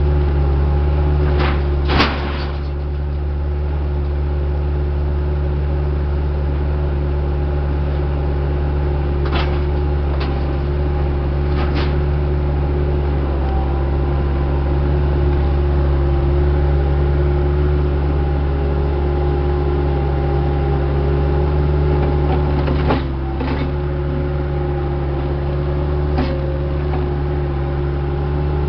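Heavy equipment diesel engine running steadily with a constant hum, with a few sharp knocks or clunks, about two seconds in, around ten seconds in and near the end.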